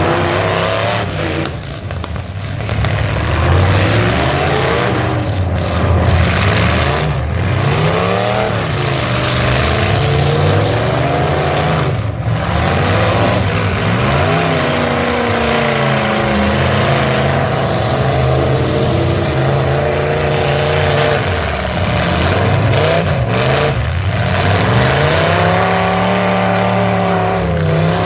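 Full-size pickup truck engines revving hard over and over, the pitch climbing and dropping every second or two as the trucks accelerate and back off, over a steady noisy din.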